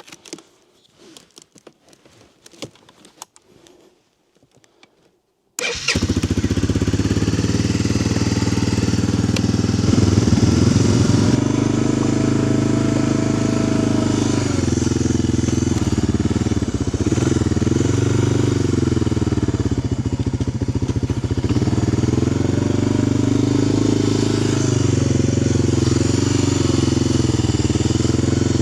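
Four-wheeler (ATV) engine catching and starting about six seconds in after a stretch of faint handling sounds, then idling steadily with a few gentle rises and falls in pitch. It has been jump-started from a booster pack because its battery is bad.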